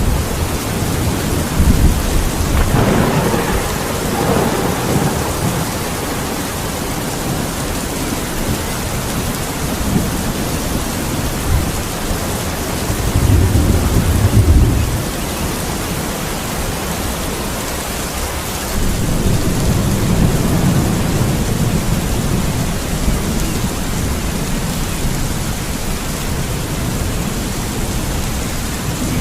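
Thunderstorm: steady rain with rolling thunder, a rumble a few seconds in, a louder low rumble around the middle, and another long rumble a little later.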